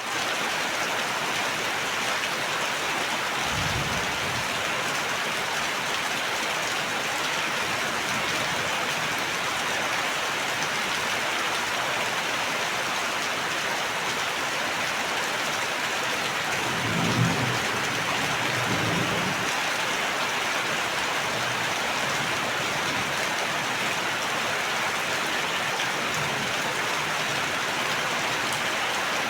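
Steady heavy rain falling, an even hiss of drops on surfaces. A brief low rumble comes about four seconds in, and a louder one a little past the middle.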